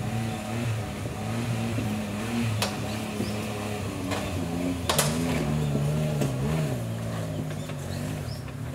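Modified Suzuki Jimny's engine running at low revs as it crawls over rocks, its pitch rising and falling with the throttle. A few sharp knocks cut in, the loudest about five seconds in.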